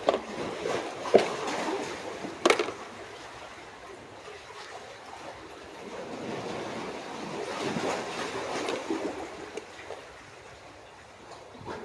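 Water lapping and splashing, with a couple of sharp knocks in the first three seconds and a louder, busier stretch of splashing in the second half.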